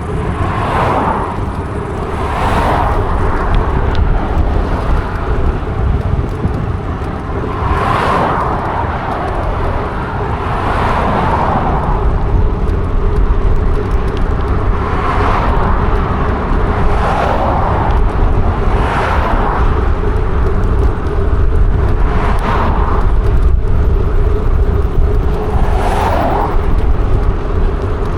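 Mountain bike in motion: steady wind rumble on the microphone and tyre noise along the path, with a whooshing swell every few seconds.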